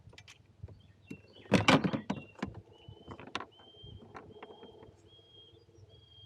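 Handling noises in a kayak while landing a channel catfish: scattered knocks and a loud, brief thrashing or rustling burst about a second and a half in, followed by a run of short, high-pitched squeaks repeating about twice a second.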